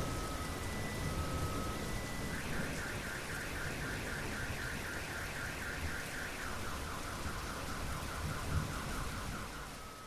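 Steady rain with a car alarm sounding over it: an on-off steady tone, then from about two seconds in a fast warbling tone that drops to a lower pitch partway through. The rain fades away at the very end.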